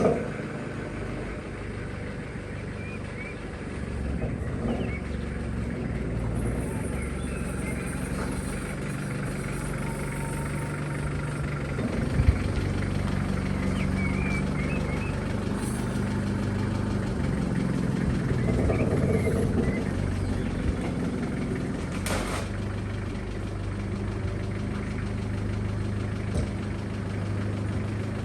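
1991 Nissan Terrano D21 engine idling steadily just after starting, with a single sharp knock about twelve seconds in and a click near the end.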